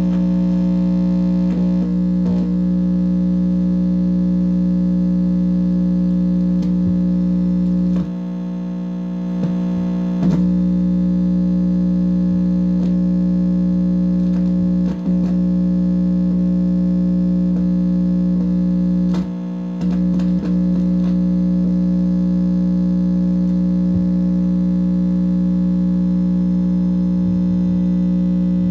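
Loud, steady electronic buzz made of several fixed tones, the output of a microwave receiver or amplifier picking up interference. The buzz dips and thins briefly twice, about eight and nineteen seconds in, with a few clicks. The uploader takes the signal for a directed-energy attack.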